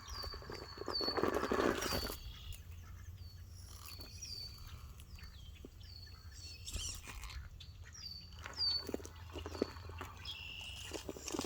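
A small bird calling over and over, a run of short, high, downward-sliding chirps about two a second. A louder burst of rough scraping noise comes in the first two seconds.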